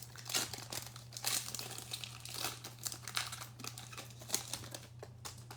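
Foil trading-card pack wrapper from a Donruss basketball mega box crinkling and tearing as it is opened, in a run of irregular crackles. A steady low hum runs underneath.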